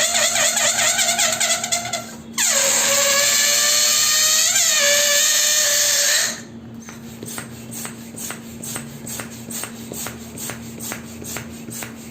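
Balloon letting air out through its stretched neck, making a loud, wavering squeal. The first release breaks off about two seconds in. A second squeal starts suddenly, drops in pitch, then holds until it cuts off about six seconds in. After that comes a much quieter, regular ticking, about two or three clicks a second.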